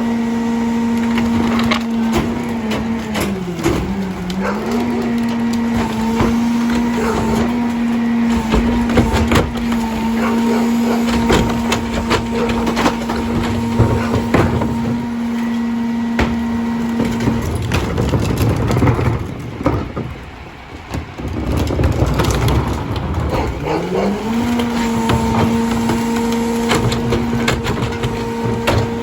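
Heil DuraPack 5000 rear loader's packer compacting trash, with crunching, cracking and splintering throughout. Over it, the Mack LR's engine holds a steady raised hum for the hydraulics. The hum drops away about two-thirds of the way through, then ramps back up a few seconds later for another packing cycle.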